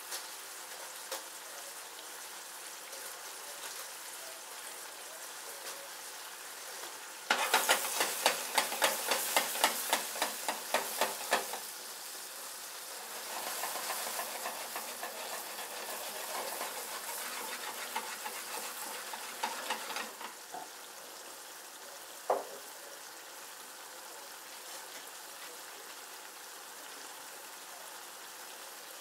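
Mushrooms, yellow pepper and tomatoes frying in extra virgin olive oil in a frying pan: a steady sizzle. About seven seconds in the pan crackles and pops much louder for several seconds, then crackles more softly for a while before settling back to the even sizzle; one sharp click comes near the three-quarter mark.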